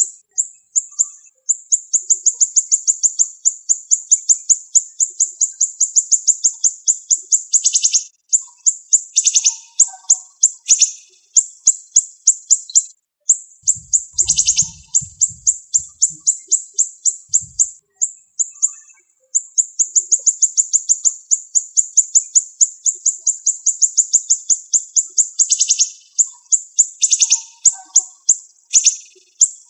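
Siri-siri songbird singing fast, tightly packed runs of sharp, high-pitched repeated notes, each run lasting several seconds with short breaks between, with a few sharper accented notes mixed in.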